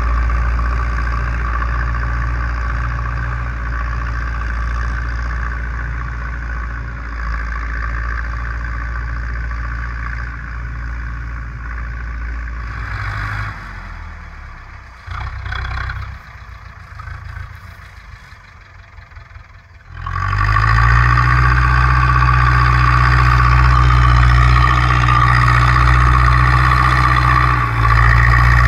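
Zetor 6245 tractor's four-cylinder diesel engine running steadily under plowing load, then dropping to a much quieter low-speed run for several seconds. About twenty seconds in it revs up sharply and runs loud and steady again at higher speed.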